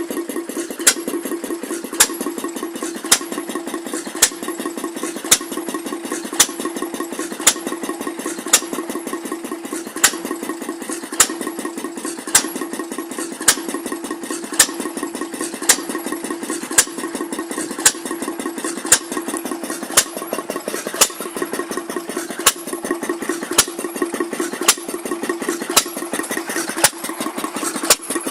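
Vintage stationary engines, a Taylor and a Lister H2, running steadily while pumping water: an even, rapid chugging with a sharp clack about once a second.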